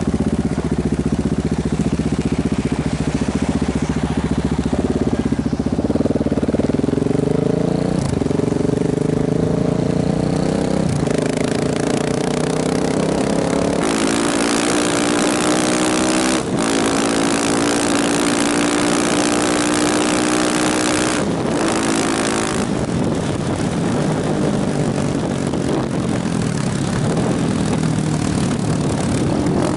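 KTM motorcycle engine accelerating up through the gears: the pitch climbs and drops back at several quick gear changes, then falls as the bike slows and rises again near the end, with a rushing hiss growing at speed.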